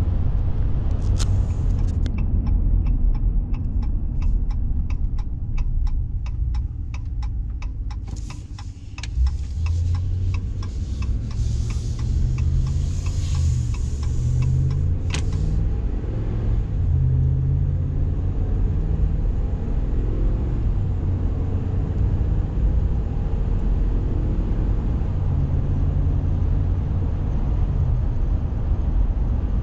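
Vehicle cabin on the move: steady engine and road rumble. From about two seconds in, a run of even ticks, about three a second, lasts several seconds; around nine seconds in the engine picks up again with its pitch rising and shifting, then settles back into a steady drive.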